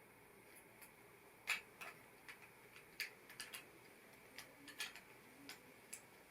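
Plastic LEGO pieces clicking and tapping as they are handled and pressed together: faint, irregular small clicks, about a dozen, starting a second and a half in.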